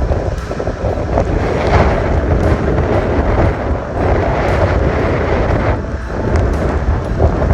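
Hurricane wind buffeting the microphone: a loud, dense rushing noise, heaviest in the lows, that swells and dips with the gusts.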